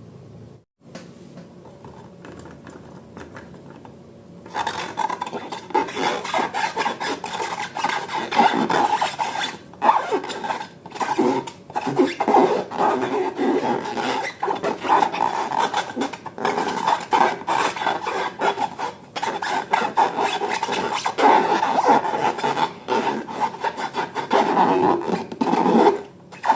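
Slime being squished and kneaded by hand, a dense rasping, crackling sound with short pauses that starts about four and a half seconds in.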